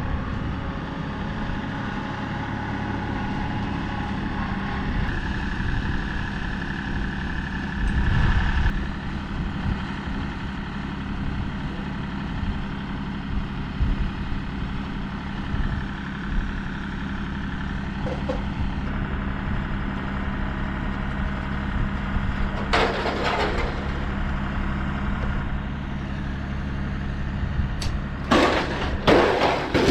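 LS compact tractor's diesel engine running steadily while its loader bucket pulls a metal gutter off a barn wall. Several loud crashes and scrapes from the gutter tearing loose: one about a quarter of the way in, one about two-thirds through, and a cluster near the end.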